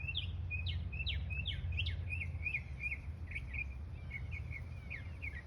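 Songbirds chirping rapidly, about four short chirps a second, some sweeping down and some up, over a steady low rumble.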